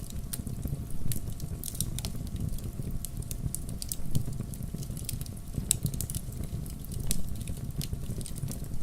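Log fire crackling and popping, with a steady low rumble of the flames underneath. There are louder pops about a second in, around four seconds and around seven seconds.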